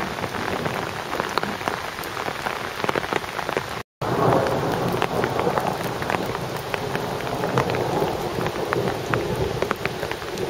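Heavy downpour: steady rain hiss with many sharp ticks of drops striking close by. The sound drops out completely for a moment about four seconds in.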